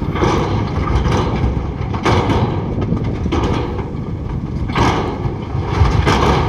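Heavy diesel earthmoving machinery running, with repeated harsh surges of rattling and scraping noise every second or so over a steady low rumble.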